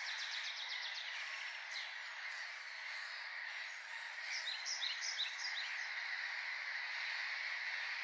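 Small birds calling in quick series of short high chirps, once at the start and again about halfway through, over a steady dense hiss.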